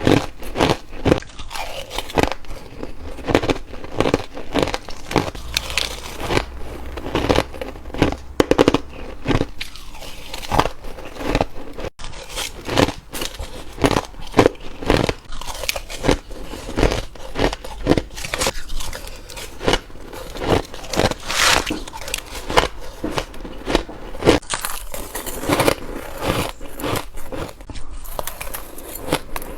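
Ice being bitten and crunched between the teeth, close to the microphone: a dense, irregular run of sharp crackling crunches, several a second, with chewing between the bites.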